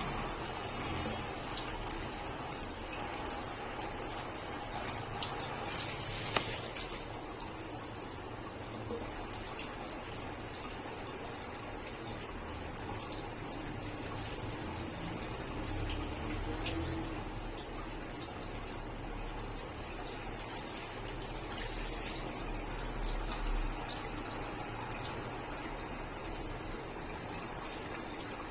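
Water running and pouring steadily, with a few faint clicks.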